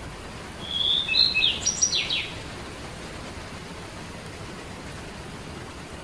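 A small songbird sings one short phrase, starting about half a second in and ending a little after two seconds. The phrase is a held whistled note followed by a few rapid sweeping chirps, over a steady background hiss.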